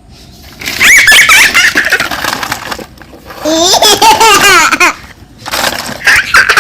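A small child laughing in three loud bursts of high, wavering laughter.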